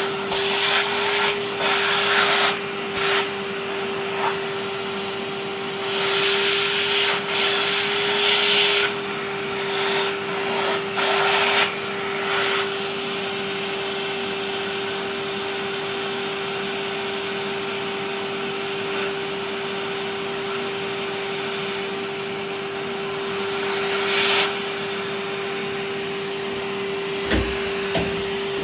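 Vacuum cleaner running steadily, its motor holding one constant humming tone under a hiss, with several louder surges of rushing, hissing air in the first twelve seconds and again around 24 seconds. A short knock near the end.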